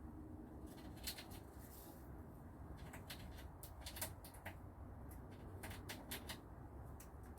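Budgies faintly chirping and clicking: scattered short, sharp high sounds at irregular intervals over a low steady hum.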